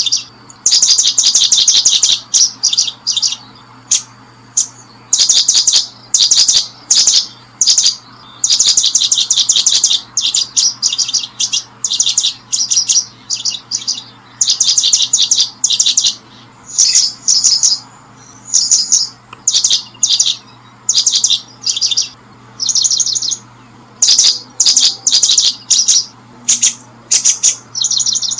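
Small bird chirping loudly and almost without pause: quick trains of rapid high notes, each lasting under a second, following one another with short gaps.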